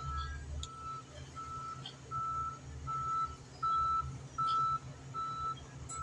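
A vehicle reversing alarm beeping steadily, about one beep every three quarters of a second, over a low steady engine drone. The beeps grow louder through the middle and then fade a little.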